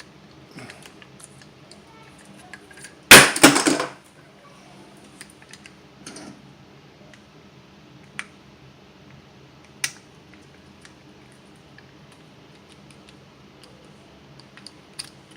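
Hand tools working on an old brass steam radiator valve: scattered small metal clicks and taps, with one loud, sudden clatter about three seconds in and single sharp ticks later on.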